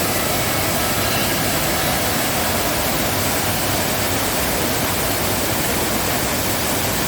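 Waterfall rushing in heavy rainy-season flow: a loud, steady, unbroken roar of falling water.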